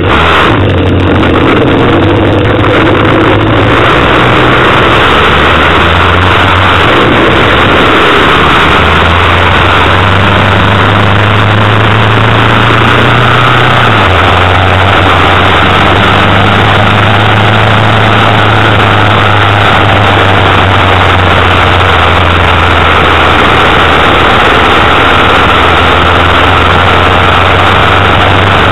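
Car engine and exhaust drone from inside the moving car, loud and steady. Its pitch creeps up for several seconds, drops suddenly about halfway through, then holds level.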